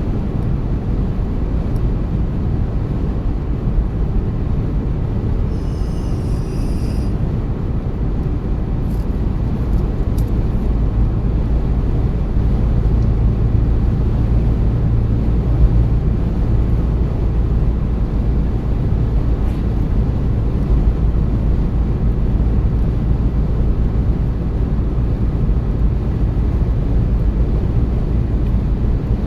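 Car driving: a steady low rumble of road and engine noise, rising slightly in level about halfway through.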